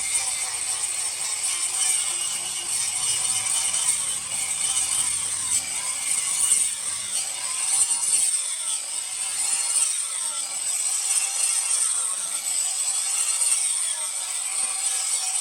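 Steady, high-pitched rasping of steel being abraded, typical of a hoe blade being ground or worked down during finishing.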